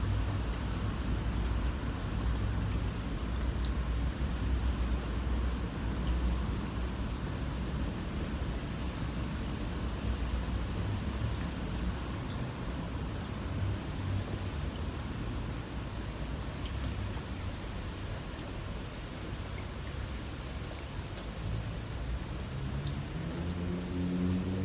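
A cricket's steady, unbroken high-pitched trill over the soft hiss of light rain and a low rumble. Near the end an engine's hum comes in, rising in pitch.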